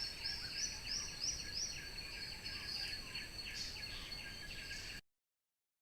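A bird calling a run of repeated short high notes, about three a second, over steady high-pitched insect droning. The sound cuts off abruptly about five seconds in.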